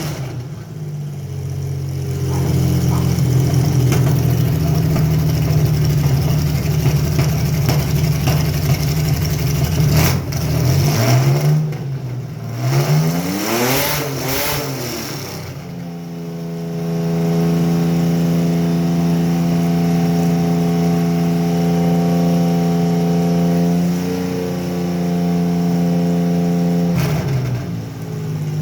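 Carbureted Chevy Lumina 3100 V6 running with a misfire that turns out to be caused by a bad coil pack. It runs steadily, is revved up and down a few times about halfway through, then held at a higher steady speed for about ten seconds before dropping back near the end.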